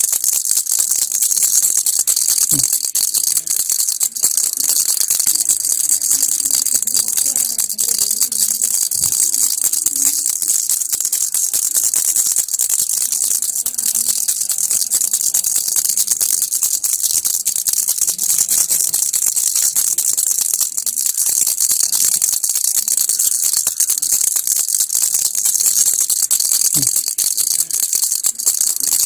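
Baby rattle (kilukki) shaken without pause: a dense, steady, high-pitched rattling of small beads.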